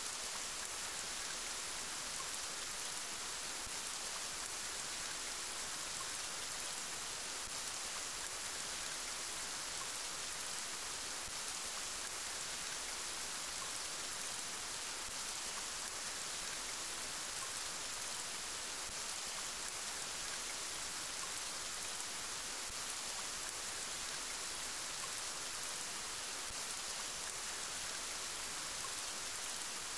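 Steady rain falling, an even hiss of many drops that does not change.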